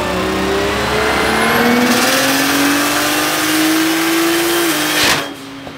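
BMW coupe's engine revving hard through a dyno pull on the rollers, its pitch rising steadily for about four and a half seconds. Near the end the engine lets off with a short loud burst and the sound drops away suddenly.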